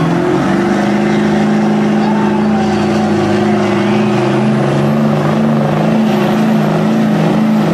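Two mud trucks' engines, a Ford Super Duty and a Dodge Ram, held at high revs under heavy load while pulling against each other in a tug of war. They run loud and steady, with a slight waver in pitch.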